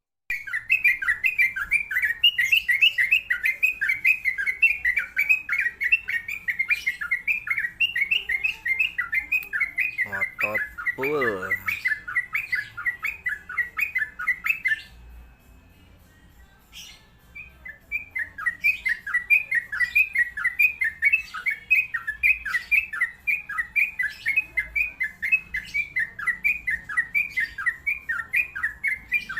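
Yellow-vented bulbul (trucukan) singing a fast run of repeated chattering notes, several a second. The song breaks off for about two seconds midway, then resumes. A brief falling sound cuts across it about ten seconds in.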